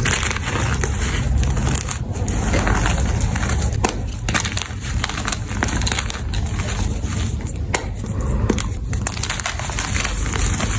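Gym chalk being crushed and crumbled: continuous dense crunching and crackling with many small sharp snaps.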